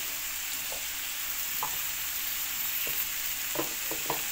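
Sliced potatoes frying in hot ghee in a non-stick kadai: a steady sizzle with a few brief pops scattered through it.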